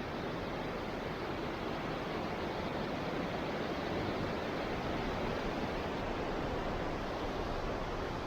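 Mountain creek rushing over rocks: a steady, even water noise.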